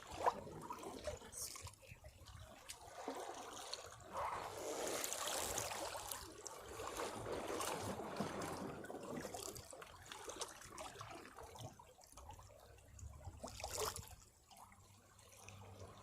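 Sea waves washing against rocks: water surging in and draining back with a trickling wash, swelling and ebbing several times.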